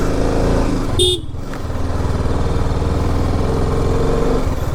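A BMW G 310 RR's single-cylinder engine runs steadily under throttle. A short vehicle horn toot sounds about a second in.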